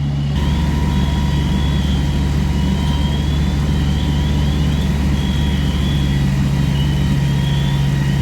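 Heavy diesel engine, likely fire apparatus, running steadily as a low drone, with faint short high chirps repeating over it.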